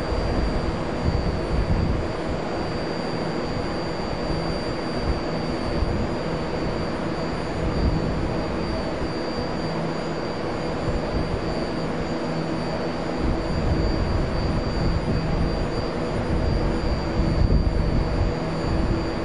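BART Bombardier MOVIA train standing at the platform with its doors open, its onboard equipment and ventilation running in a steady hum with a thin, steady high tone.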